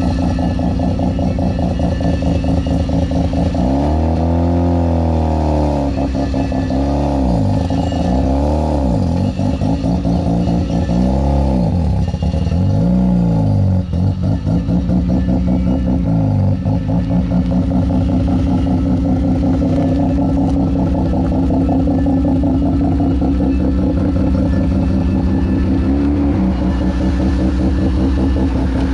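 Mazda RX-7 FD3S's half-bridge-ported 13B twin-rotor engine with a single Garrett T04Z turbo running at idle and blipped up and back down about five times in quick succession, then settling back to a steady idle for the second half.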